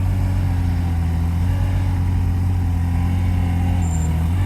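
Engine of an Avant 423 compact loader running steadily with a low hum while it lifts and carries beehives with its fork attachment.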